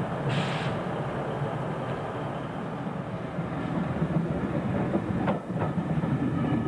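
Electric multiple unit running in alongside the platform, with a steady rumble. A short hiss comes near the start, and the wheels click over rail joints about five seconds in.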